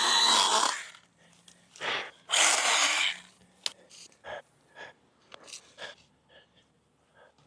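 Stihl mini pruning chainsaw running and cutting off about a second in. Then two short, loud noisy bursts and scattered faint snaps and rustles of brush.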